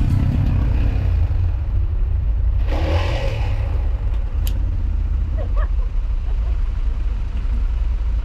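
Steady low rumble of a motor vehicle running on the move, with a brief rushing swell about three seconds in.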